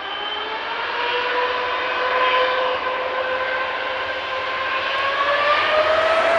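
The twin GE90-115B turbofan engines of a Boeing 777-300ER at take-off: a rushing jet noise with a whine of several tones that rise slowly in pitch, typical of the engines spooling up for the take-off roll.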